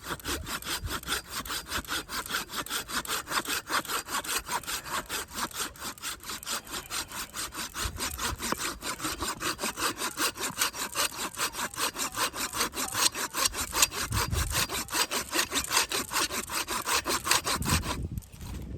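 Samurai hand saw cutting through wood in quick, steady back-and-forth strokes, about four a second, that stop near the end.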